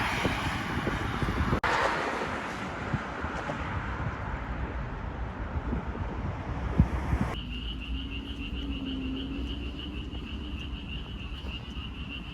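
Outdoor ambience: a steady rushing background, then after a cut about seven seconds in, a quieter scene with a continuous high pulsing trill over a low hum.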